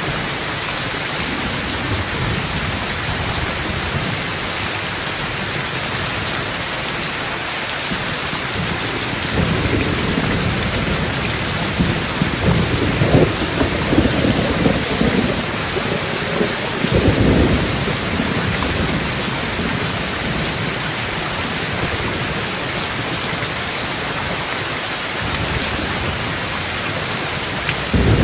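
Steady heavy rain with rolling thunder: a low rumble swells in about a third of the way through, peaks around the middle and fades, with another rumble starting near the end.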